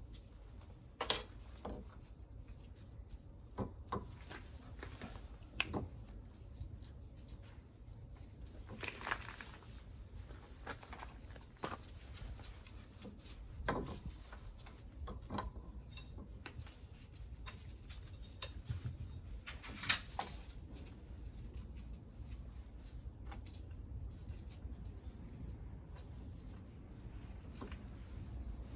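Scattered light clicks and knocks of hand tools and small metal parts being handled while parts are removed from a scooter engine, over a low steady room rumble.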